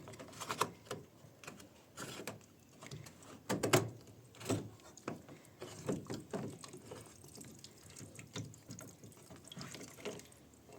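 Drain pump filter being removed from an LG front-load washing machine: scattered clicks and knocks of the plastic being handled, with water dripping out.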